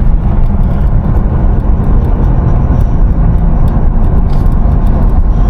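Steady low rumble of a 6-ton van driving along, its engine and tyre noise.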